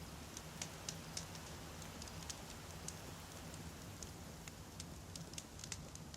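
Wood campfire burning steadily, the firewood crackling and popping with sharp, irregular snaps several times a second over a low, even hum.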